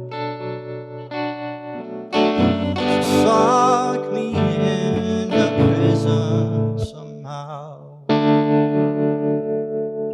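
Band music: electric guitar through effects and distortion over bass and drums, an instrumental passage that gets louder about two seconds in, drops back briefly near seven seconds, and comes back in at eight.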